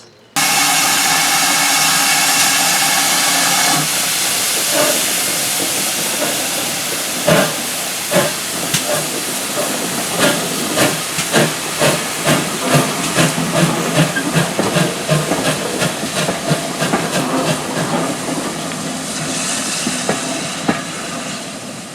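Steam locomotive whistle sounding for about three and a half seconds, then the locomotive getting under way with steam hissing and exhaust beats that start slow and steadily quicken.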